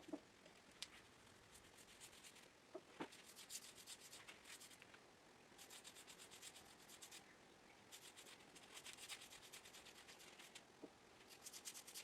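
Faint hand rubbing on the wooden top of a workbench during finishing: runs of quick, even strokes broken by short pauses, with a few soft knocks.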